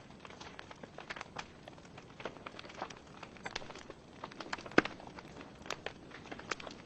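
Wood fire burning in a fireplace: logs crackling with irregular sharp pops and snaps over a faint steady hiss, one louder snap nearly five seconds in.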